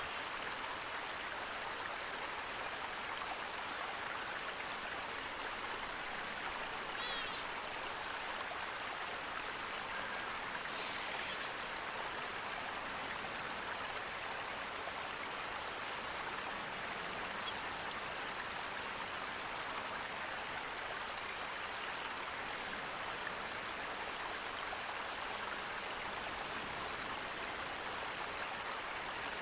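Steady rushing of flowing water, with a few faint bird chirps about 7 and 11 seconds in.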